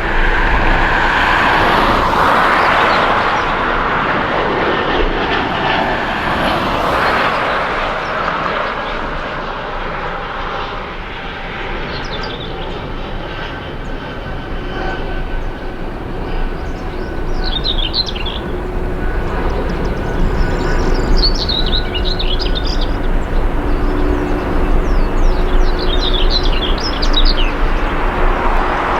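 Jet airliner engines running as a plane passes, loudest in the first several seconds with a falling pitch, easing off, then building again toward the end. Short high chirps come through in the second half.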